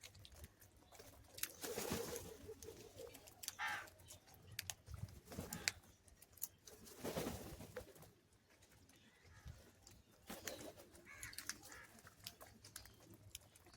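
Birds at a feeding spot calling faintly several times, with scattered sharp clicks between the calls.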